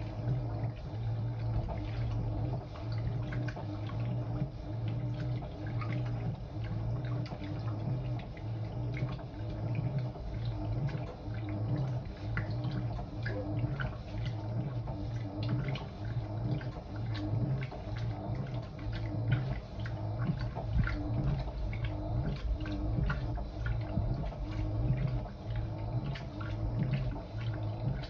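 Fisher & Paykel IW812 top-loading washing machine agitating a load: its direct-drive motor hums in short pulses about once a second as the agitator reverses, with water sloshing and splashing in the drum.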